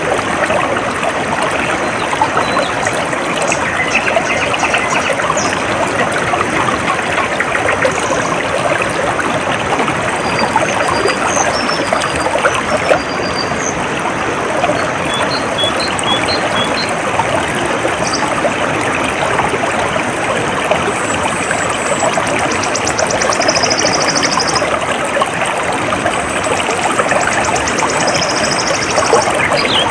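Water trickling and running steadily in a small stream, with faint high bird chirps scattered through.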